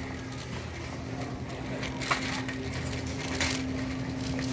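Crinkling, rustling handling noise with a few sharp crackles, like packaging being handled, over a steady low hum.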